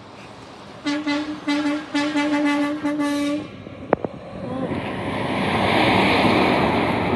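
Truck air horn sounding about five short blasts on one steady pitch. Then the truck passes with a swelling rush of engine and tyre noise.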